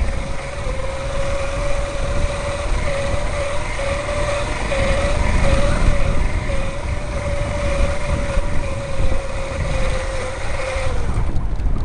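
Electric bike's motor whining at a steady, slightly wavering pitch under power, over a heavy low rumble of wind on the microphone and riding over rough ground. The whine stops near the end, leaving the rumble.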